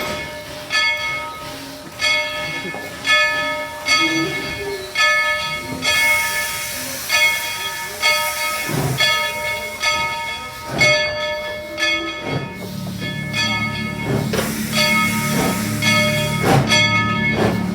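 Steam locomotive's bell ringing steadily, about one stroke a second, with bursts of steam hissing. A low steady hum joins about twelve seconds in.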